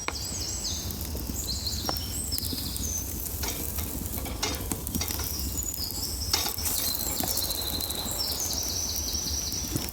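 Pan bread frying in a pan, a steady sizzle with a few light clicks of a utensil against the pan. Birds sing short, falling chirps over it.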